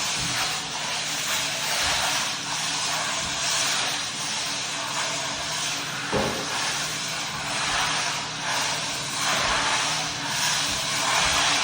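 Electric floor buffer running, its motor humming steadily under the loud hiss of the pad working hard wax oil into sanded oak, swelling and fading with each sweep.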